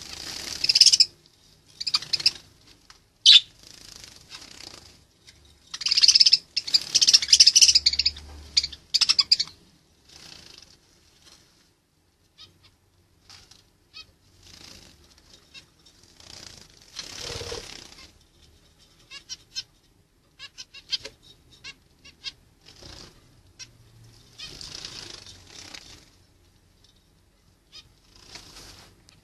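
Parrots and other birds: irregular bursts of wing flapping mixed with harsh calls, loudest and most frequent in the first ten seconds, then fainter and sparser.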